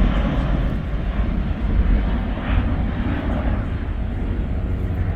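Boeing 737-800's CFM56 jet engines, a loud steady rumble as the airliner climbs out after takeoff.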